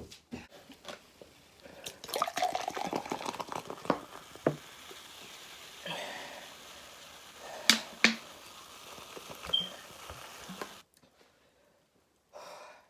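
Wet eating sounds of seafood in butter sauce being handled and chewed: squelching and crackling, with two sharp cracks about eight seconds in, then it goes quiet near the end.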